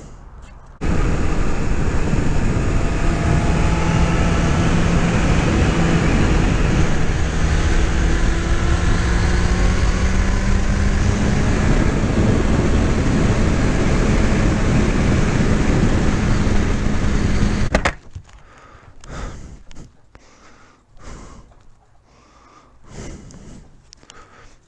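Motorcycle being ridden on the road: a steady engine note under heavy wind and road noise, the pitch climbing slightly, for about seventeen seconds. It then cuts off abruptly to quiet, scattered knocks and shuffling.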